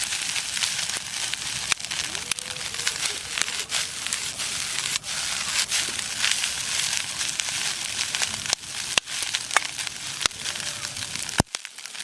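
Wood campfire crackling, a steady hiss studded with frequent sharp pops, cut off suddenly near the end.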